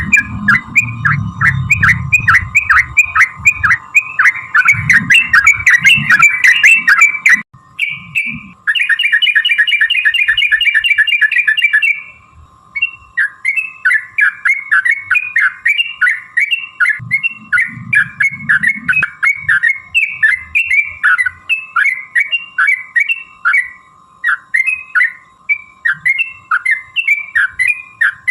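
Yellow-vented bulbul (trucukan) calling: a long series of quick chattering notes, about three to four a second. About a third of the way in they run together for a few seconds into a fast rolling trill, the 'ropel' call. A faint steady hum lies underneath.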